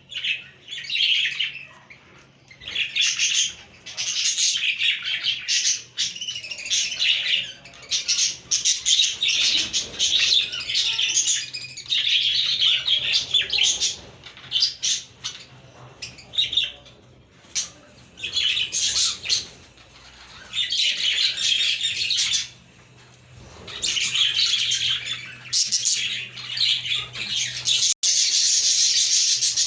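Several budgerigars chirping and warbling in busy bouts with short pauses between, turning into unbroken chatter near the end. A faint steady low hum runs beneath most of it.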